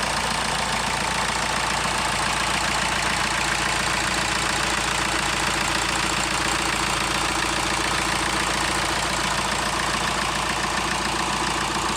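VW Transporter engine idling steadily, with no revving.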